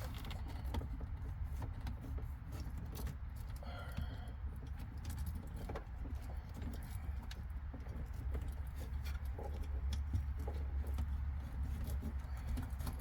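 Light clicking and jingling of wires and small metal terminals being handled and fitted into a fuse block, over a steady low rumble.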